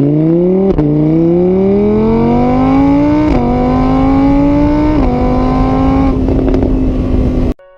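A vehicle engine accelerating hard, its pitch climbing and dropping back at each of three gear changes, then holding a steady high note before cutting off suddenly near the end.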